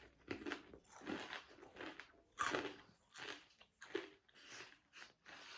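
A person chewing and crunching a snack close to the microphone, in a string of irregular bites.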